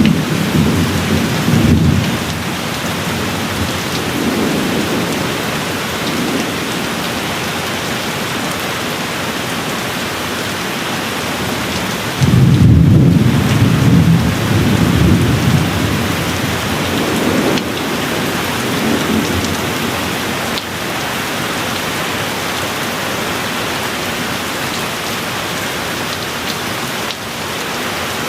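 Steady rain with several low rolls of thunder, rumbling in and fading; the strongest roll starts a little under halfway through, with weaker ones near the start and around two-thirds through.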